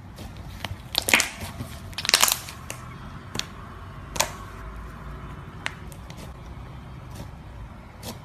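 Slime being handled, giving irregular sharp pops and crackles. The loudest come about a second in and in a cluster around two seconds, with fainter ones later.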